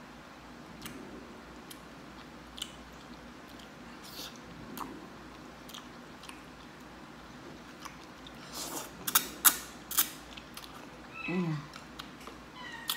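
A person chewing drunken noodles close to the microphone, with wet mouth clicks and smacks that grow louder and quicker from about eight to ten and a half seconds in, then a short hummed 'mm' near the end.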